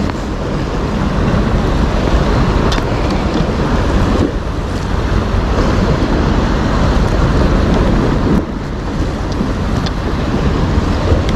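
Strong wind buffeting the microphone over the wash of sea waves, easing briefly about four seconds in and again about eight seconds in.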